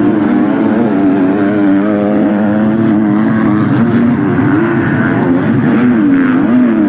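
MX2 250cc four-stroke motocross bikes revving hard, the engine pitch rising and falling with throttle and gear changes, more than one bike heard at once.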